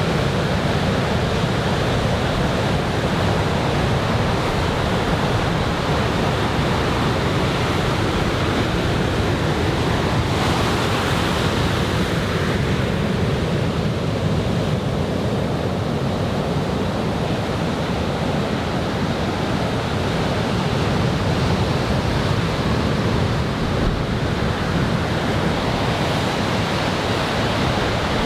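Large typhoon-swell surf breaking on the beach, heard as a steady wash of wave noise, with wind on the microphone.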